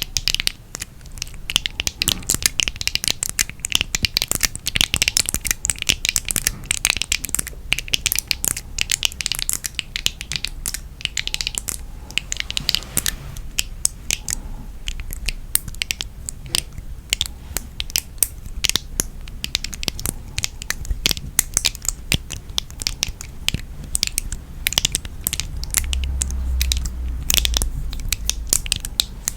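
Close-miked crackling and crunching: a dense run of rapid, irregular clicks and scratches from an object being squeezed and handled, with a low rumble swelling near the end.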